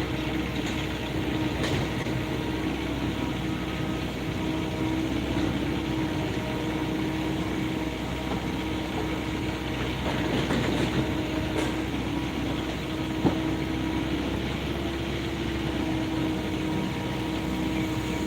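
Diesel engine of heavy earthmoving machinery running steadily, with a brief rise about ten seconds in and a single sharp knock a few seconds later.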